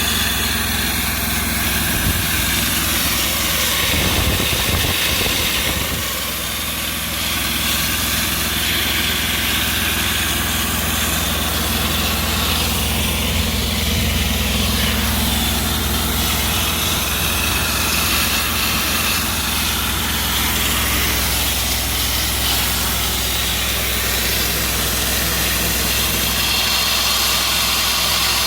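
Engine running steadily at constant speed, with a hiss of air over it and a brief dip in level about six seconds in.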